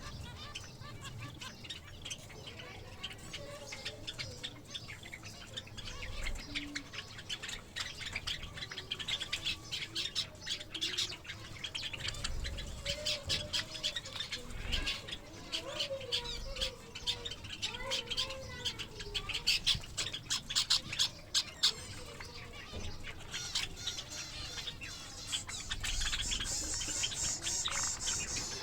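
Flock of pet Java sparrows and other small birds chirping and calling, with many quick sharp clicks and taps throughout.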